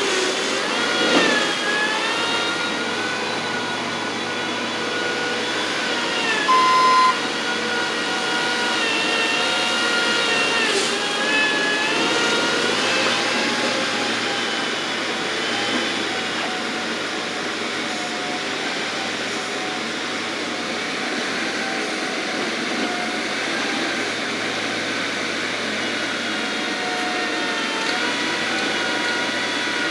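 Bobcat skid steer's diesel engine working continuously, its pitch rising and falling as the load changes. A reversing alarm beeps once about seven seconds in.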